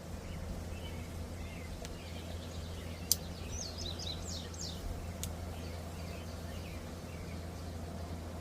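Steady low background hum, with a bird chirping a quick run of short, falling notes about three and a half seconds in, and a few sharp clicks, the loudest just before the chirps.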